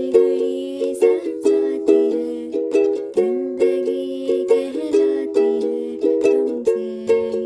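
Music: chords strummed on a small string instrument in a steady rhythm, about two strums a second, each ringing and fading.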